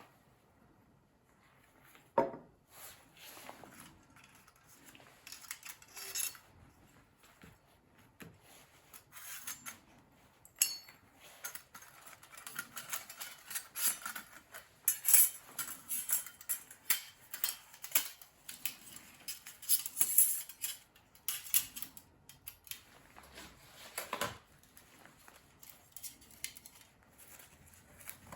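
Thin titanium plates of a hinged mini fire stand clinking and scraping as they are handled: a long irregular run of light metallic clicks and rattles, with a sharper knock about two seconds in and another near the end.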